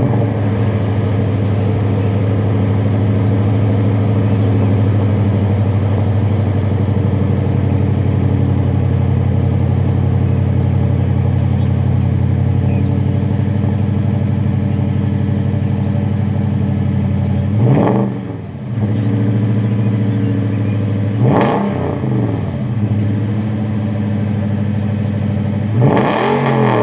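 2008 Toyota Tundra's 5.7-litre V8 idling steadily through a muffler-delete exhaust with stock catalytic converters. It is revved briefly three times in the last ten seconds, each rev rising and falling back to idle.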